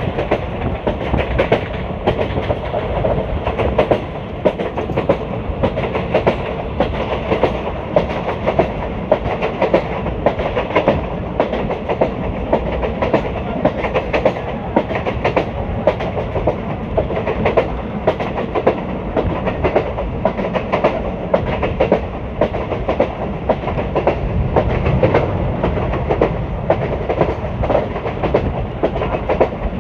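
Indian Railways ICF passenger coach running on the track: a steady rumble of wheels on rail, with a continual clickety-clack of sharp clicks as the wheels pass over the rail joints.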